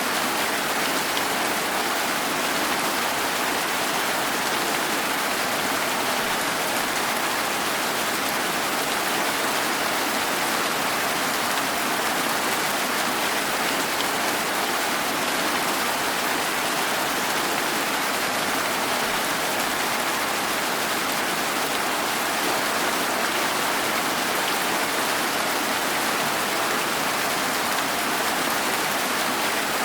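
Steady, even rainfall: a constant hiss of rain with no thunder or single drops standing out.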